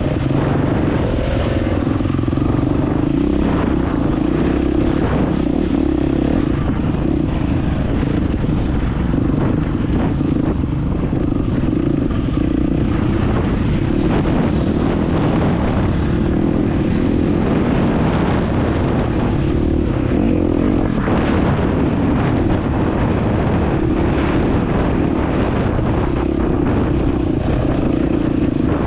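Dirt bike engine running steadily under way, with frequent knocks and rattles throughout.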